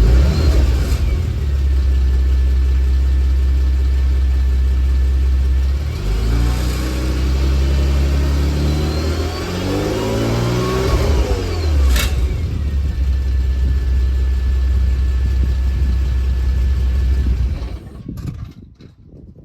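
Porsche Macan S V6 engine idling, revved up once and let fall back to idle about halfway through, with a sharp click as the revs drop; the engine sound stops near the end.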